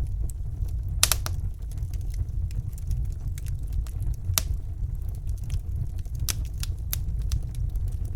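Wood fire crackling in a fireplace: irregular sharp pops and snaps over a steady low rumble, with the loudest pops about a second in and just past four seconds.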